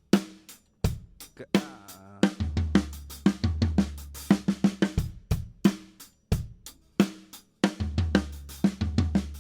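Acoustic drum kit played in a right-left-left grouping of three, the right hand on the snare and the left alternating between the rack tom and the hi-hat, in quick repeated phrases with short breaks. A low drum rings out twice under the strokes.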